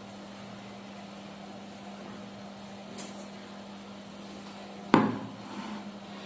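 A sharp knock of tableware on a hard surface about five seconds in, with a fainter tick about three seconds in, over a steady low hum.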